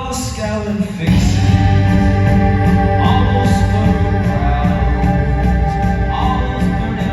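Live band music with a man singing; the band comes back in fuller and louder about a second in, over long held notes.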